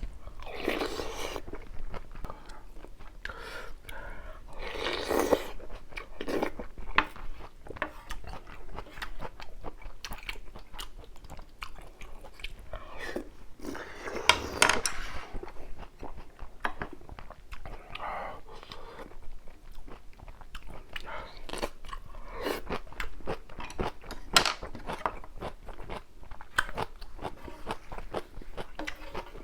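Close-miked eating sounds: a person chewing and crunching mouthfuls of spicy ramyun with rice and kimchi, with many small wet clicks and a few longer, louder bouts of chewing.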